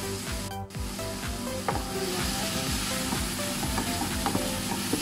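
Chicken and sliced bell peppers sizzling in a hot nonstick frying pan. From about two seconds in, a spatula scrapes and clicks against the pan as the food is stirred.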